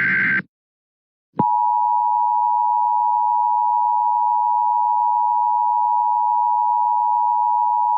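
The end of a short warbling EAS digital header burst, then about a second of silence, then the Emergency Alert System two-tone attention signal (853 and 960 Hz sounded together): one steady, unchanging tone, signalling an alert is about to be read.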